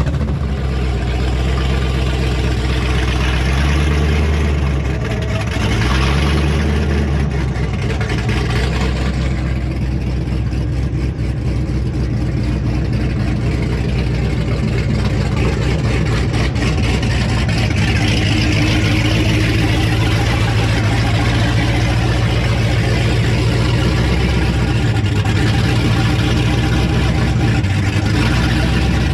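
Truck engine running loudly at a steady idle, its pitch shifting briefly a few times: about four seconds in, about six seconds in, and again near the end.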